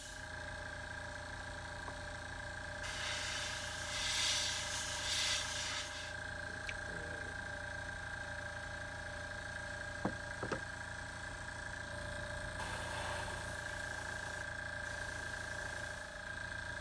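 Airbrush compressor switching on and running with a steady hum, while the airbrush sprays black paint in two hissing bursts, about three seconds in and again about twelve seconds in. Two light clicks come about ten seconds in.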